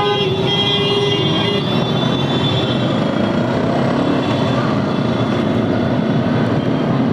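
Motorcycle ride through city traffic: steady engine, road and wind noise. A vehicle horn sounds over it for about the first second and a half.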